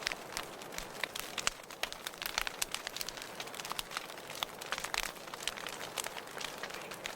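Wood fire burning in a fireplace, crackling, with irregular sharp pops several times a second over a soft hiss.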